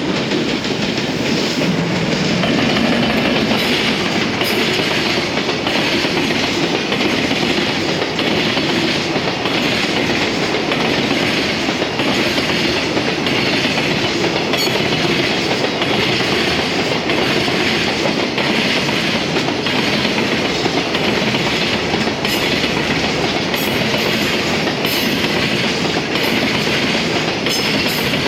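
Freight train hauled by an EF210 electric locomotive passing at speed, a steady loud rumble of wagons with the wheels clattering over rail joints in repeated clicks.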